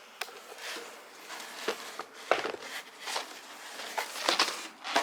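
Packaging being handled: irregular rustles, scuffs and light knocks, a few strokes spaced about a second apart.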